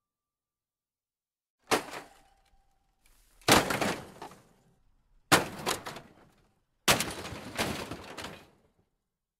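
Four sharp crashing impacts, about two seconds apart, each followed by a short clattering tail as something breaks; the last one has a second hit close behind it.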